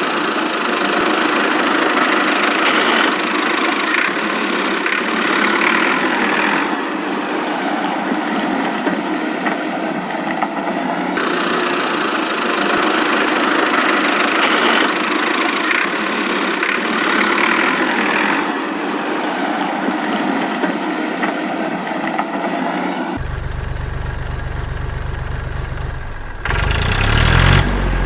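Engine running steadily. About three-quarters of the way through the sound changes, and a deep low rumble comes in.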